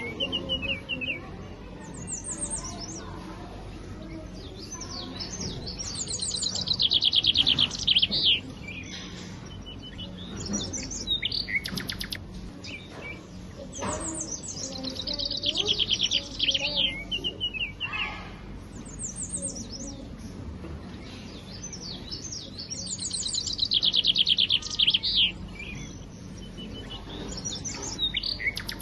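Birdsong: high, rapid trilled chirping phrases that swell and fade, the same pattern coming back about every eight to nine seconds.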